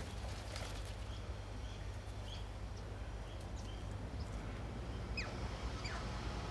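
Birds calling: scattered short high chirps, then two quick falling notes near the end, over a steady low rumble.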